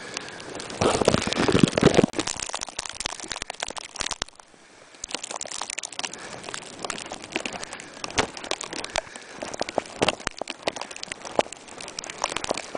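Plastic bag wrapped over the camera crinkling and crackling as it is carried along, heaviest in the first two seconds, with a short lull around four seconds in.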